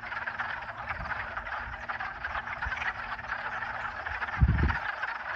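Dense chorus of many frogs calling at once from a pond, their calls overlapping into one continuous din: a breeding chorus, which the listener takes for frogs probably mating. A short low thump about four seconds in.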